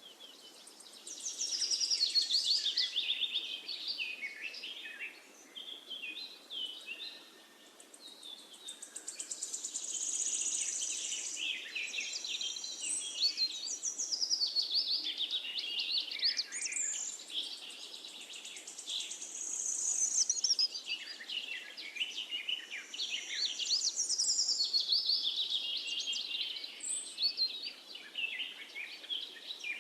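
A chorus of several songbirds singing at once: rapid, overlapping twittering, trills and whistled phrases that rise and fall, over a faint steady hiss.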